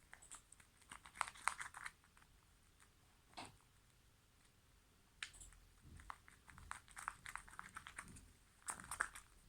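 Slime being kneaded and squeezed by hand: faint sticky clicks and crackles, in two spells with a near-silent pause in the middle.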